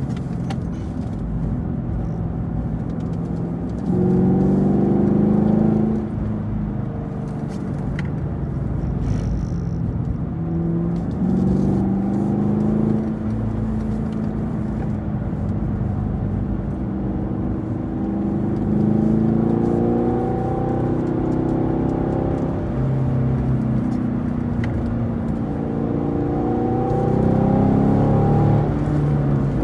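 2018 Camaro SS 1LE's 6.2-litre V8 driven on track, rising in pitch under throttle several times and dropping back as the driver lifts and brakes for corners.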